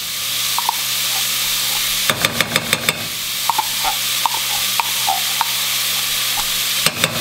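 Sausage, garlic and herbs sizzling steadily in a stainless steel pot, with small scattered pops. About two seconds in and again near the end, a metal spoon gives a quick run of sharp clinks while thick tomato paste is scooped from the can into the pot.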